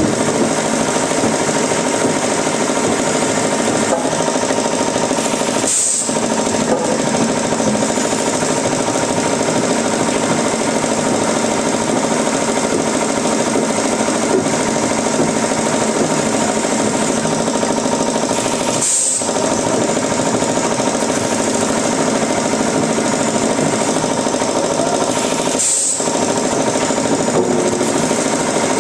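Wood-processing machinery running steadily with a continuous mechanical hum and rattle, broken by three very short dropouts.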